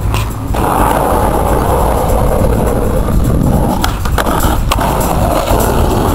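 Skateboard wheels rolling with a steady rumble, broken by a few sharp clacks about four seconds in.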